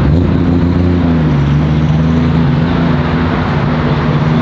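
Car engine running at a steady low pitch, loud and even, with a brief dip and recovery in pitch right at the start.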